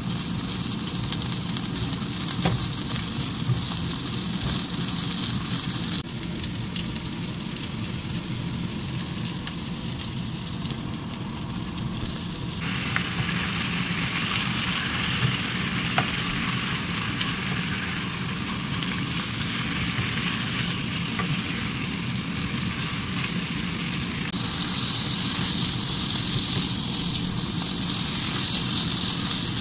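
Sliced green onion and then squid pieces sizzling in hot oil in a frying pan while being stirred with a spatula, with a few light clicks of the spatula against the pan. The hiss of the frying shifts abruptly a few times.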